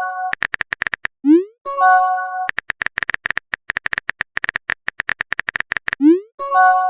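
Phone texting sound effects: rapid keyboard tap clicks, a short rising swoosh as a message is sent, then a brief chime of several notes. The swoosh and chime come about a second in and again near the end, with quick tapping between them.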